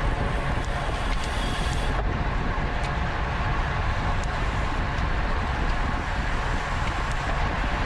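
Wind noise on the camera microphone of a racing bicycle at speed: a steady rush, heaviest in the low end.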